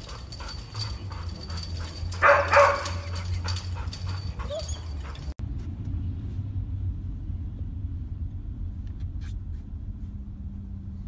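A dog whimpering, with one short, louder cry about two seconds in. After a sudden change about five seconds in, there is only a quieter low hum with a few faint clicks.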